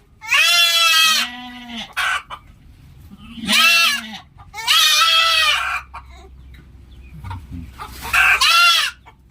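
Goats bleating repeatedly: four loud, high-pitched bleats of about a second each, with a few shorter, deeper bleats between them.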